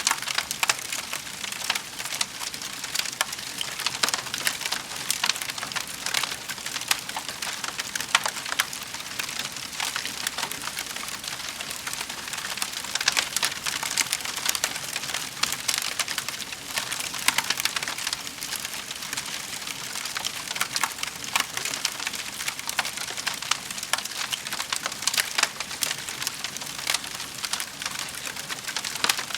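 Wood fire burning in a fireplace: a steady hiss with dense, irregular crackles and pops.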